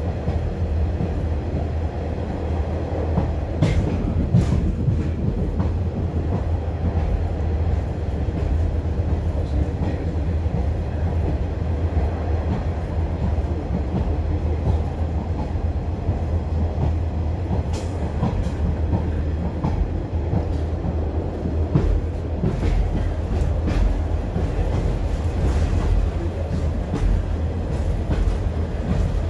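Cabin sound of a BR Class 142 Pacer diesel railbus on the move: a steady low drone and rumble from its underfloor diesel engine and running gear, with sharp clicks of the wheels over the track every few seconds.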